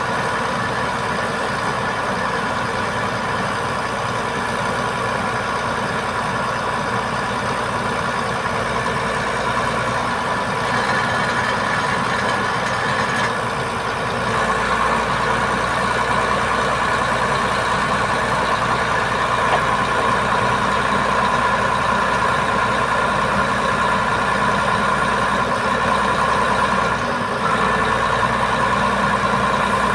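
A heavy truck's diesel engine running steadily at idle, with a steady mid-pitched hum on top. It gets a little louder about halfway through.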